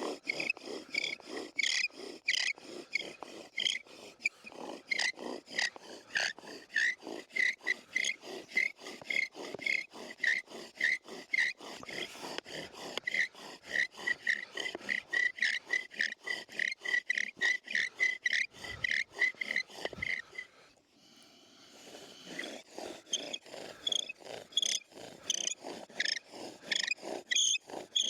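Bow drill spindle squeaking and rasping in its wooden hearth board as the bow is sawed back and forth in rapid, even strokes to build friction heat for an ember. The strokes stop briefly about three-quarters of the way through, then start again.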